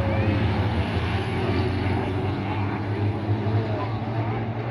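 A steady low engine drone that holds the same pitch throughout, without rising or falling.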